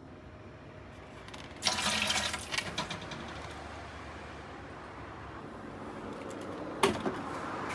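Liquid gushing out in a loud splashing rush, then pouring on as a steady hiss, with a single sharp click near the end.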